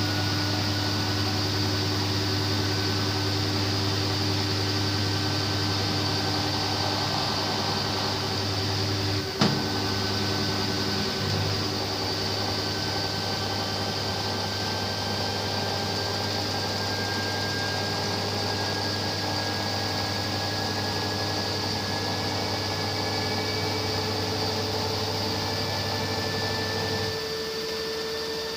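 LG washing machine in its spin cycle, a steady motor hum and whine whose pitch creeps slowly upward as the drum spins. One sharp click about nine seconds in, and the low hum drops out briefly near the end.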